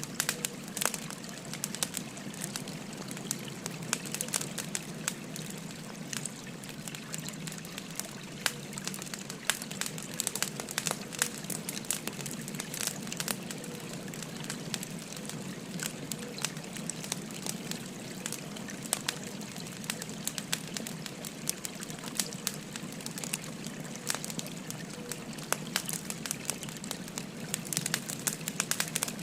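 Burning firewood crackling with many sharp pops, over the steady trickling of a river.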